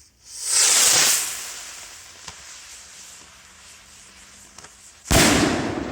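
Firework rocket launching with a loud hissing rush that swells and then trails off over a few seconds. About five seconds in comes a sudden loud bang.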